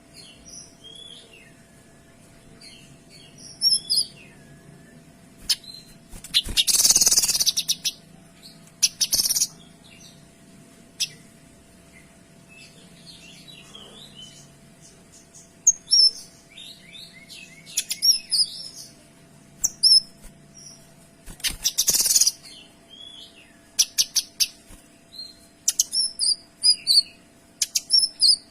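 A kinoy songbird singing continuously in varied high chirps and short trills, broken by loud, harsh, rapid-fire bursts about seven seconds in and again about twenty-two seconds in, with quick runs of sharp notes near the end.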